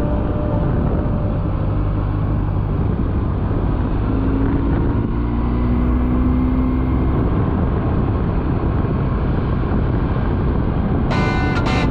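Motorcycle riding at road speed: a steady rush of wind and road noise over a low engine drone, with the engine note rising slowly about halfway through. Music comes in near the end.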